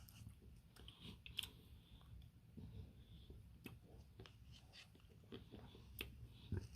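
Close-up eating sounds of someone eating a Dairy Queen Smarty Blizzard: soft chewing, mouth smacks and small clicks, with a louder low thump near the end.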